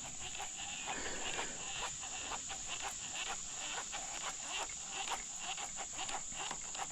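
Steady high-pitched drone of insects in the summer woods by a creek, with many irregular light ticks and small splashy sounds over it.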